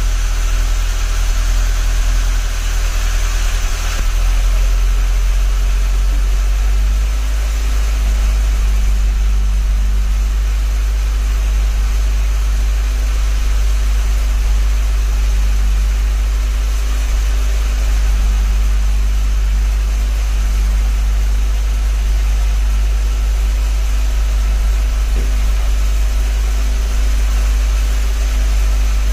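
Volvo 360 GLT Turbo's four-cylinder engine running steadily at idle on its first run after an engine rebuild and turbo conversion, with a deep, even rumble. A brighter hiss over the first few seconds drops back about four seconds in.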